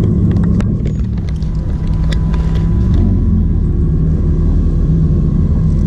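Car engine idling steadily with a low, even rumble, with a few light clicks over it.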